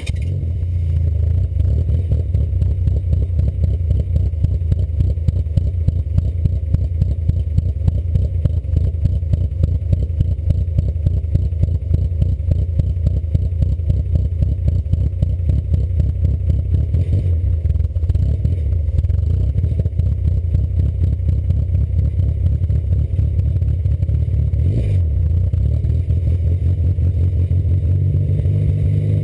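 Cammed 2.0 L ABA four-cylinder of a Mk3 Volkswagen Jetta idling steadily through a Magnaflow exhaust just after a cold start, a rapid, even pulsing from the exhaust. It is running rich on the cold start, pushing out unburnt fuel.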